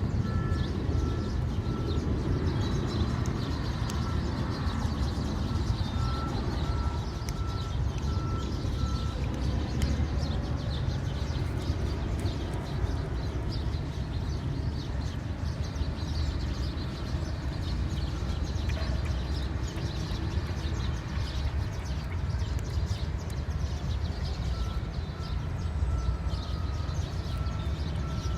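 Steady low rumble of vehicle engines, with an electronic beeper sounding at an even pace through the first nine seconds and again in the last few seconds.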